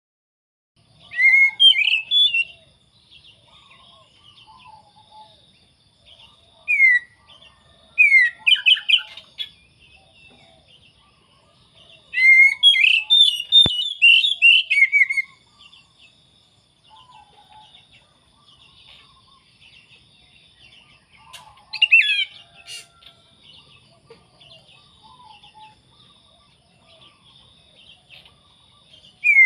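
Oriental magpie-robin (kacer) singing loudly in bursts of rapid whistled and sliding notes. There are five bursts a few seconds apart, the longest about three seconds, with a faint steady high chatter between the phrases.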